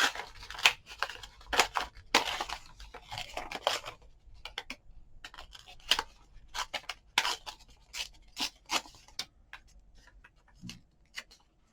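Scissors snipping paper in a series of short, irregular cuts that thin out over the last few seconds.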